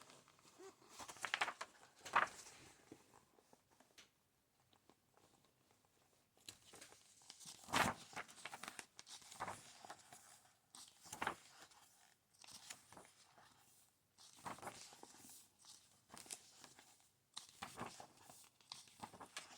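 Pages of a big, thick book being turned one after another, short paper rustles at irregular intervals.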